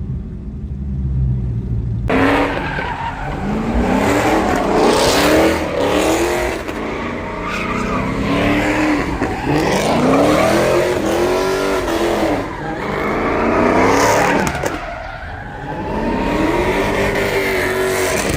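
Hemi V8 muscle car revving up and down again and again while sliding, with the hiss of tyres spinning on wet pavement. The engine idles low for the first couple of seconds, then the revs climb and fall repeatedly.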